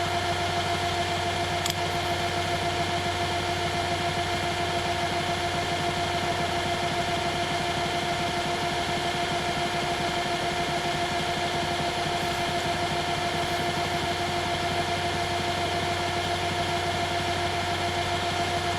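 Small metal lathe running steadily with an even motor whine while the spinning workpiece is finished with fine sandpaper. There is one small click about two seconds in.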